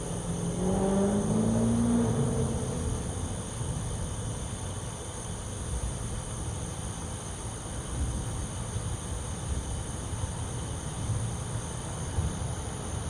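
Low, uneven outdoor rumble, with an engine sound rising in pitch in the first two seconds, as of a vehicle passing.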